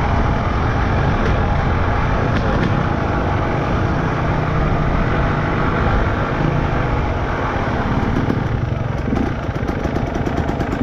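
Off-road trail motorcycle engine running steadily as the bike is ridden.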